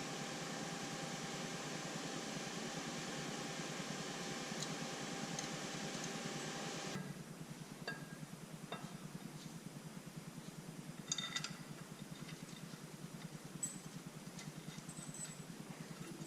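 A steady machine hum, like a fan or small motor running, cuts off suddenly about seven seconds in. A few light clicks and metallic clinks follow.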